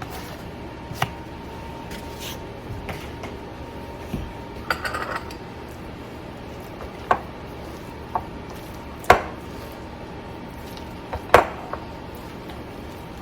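A spoon clinking and scraping against a mixing bowl while stirring cheese into a cream-cheese filling: a handful of separate clinks with a short scrape in the middle, the two loudest clinks in the second half.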